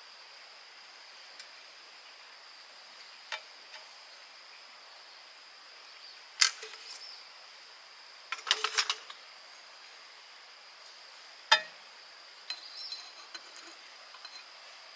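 Scattered sharp clinks and knocks of tools and parts being handled during gearbox repair work, the loudest about six and a half and eleven and a half seconds in, with a quick run of clinks near nine seconds. A steady high insect trill runs underneath.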